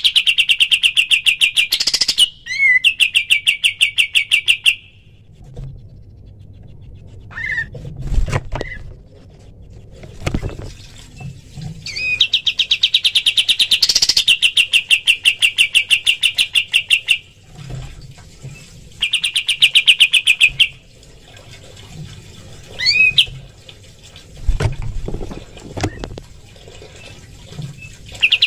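Kapas tembak (pied triller) singing its rapid machine-gun trill: fast runs of identical notes on one pitch, in bouts of a few seconds with pauses between, the longest about five seconds. Short upswept call notes and a few low thumps fall in the gaps.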